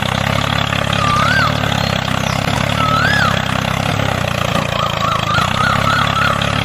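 Mini tractor engine idling steadily. High rising-and-falling whistles sound over it about a second in and again about three seconds in, followed by a quick warbling string of them near the end.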